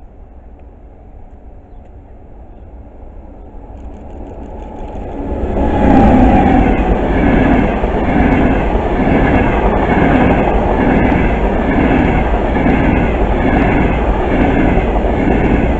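An electric passenger train approaches, growing louder over the first five seconds or so, then runs past close by. It makes a loud, steady rush with a rhythmic clatter of wheels on the rails, repeating about one and a half times a second.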